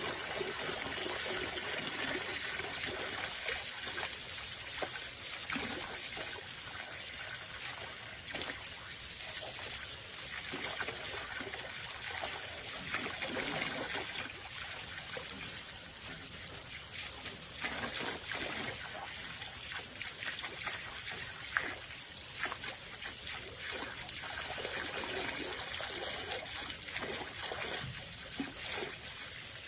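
Water trickling steadily, with small splashy ticks throughout.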